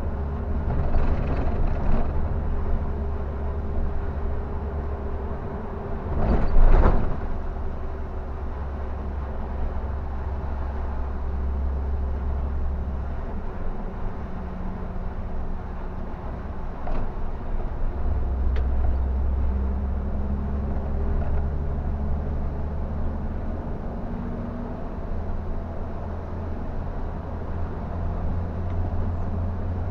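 Scania K360 bus running on the road, heard from inside: a steady low engine drone whose pitch steps up and down as it is driven. A short, louder rushing noise about six and a half seconds in.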